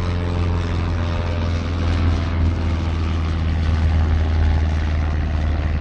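A boat engine running steadily with a low, even drone.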